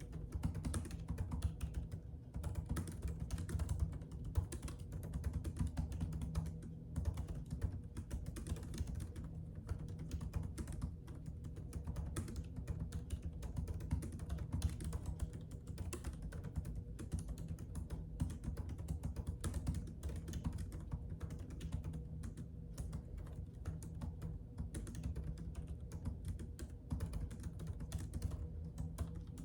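Typing on a computer keyboard: a steady stream of fast keystroke clicks with a few brief pauses, over a faint low hum.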